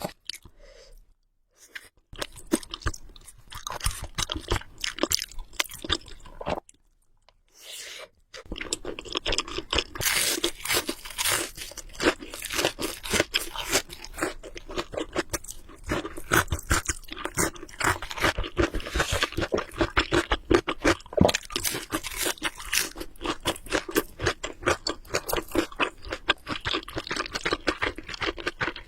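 Close-miked chewing of noodles in the mouth, with rapid wet mouth clicks and smacks. There are short pauses near the start and again about a quarter of the way in, and after that the chewing runs on without a break.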